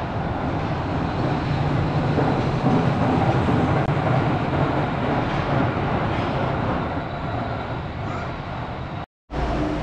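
Wuppertal Schwebebahn suspended railway train running, a steady rumbling rolling noise that grows a little louder a couple of seconds in and eases near the end.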